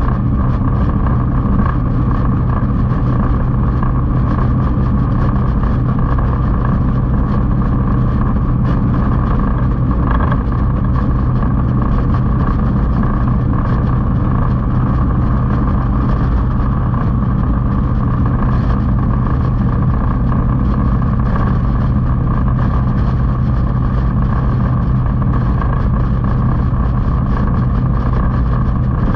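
Motorcycle engine running steadily at an even cruising speed, with no changes in pitch.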